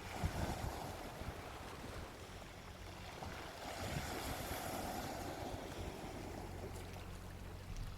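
Gentle sea waves washing onto a beach: a steady wash of surf that swells about a second in and again around four to five seconds in.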